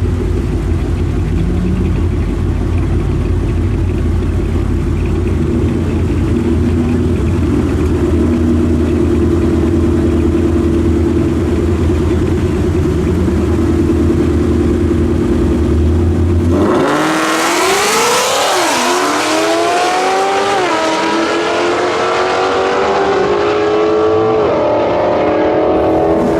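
A car engine runs at a steady low drone, then about two-thirds of the way through goes suddenly to full throttle. It pulls hard, and its pitch climbs and drops back several times as it shifts up through the gears.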